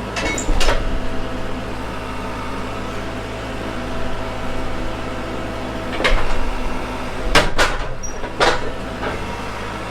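An engine running steadily at an even speed, with several sharp knocks or clanks over it: one near the start, then a cluster from about six to eight and a half seconds in.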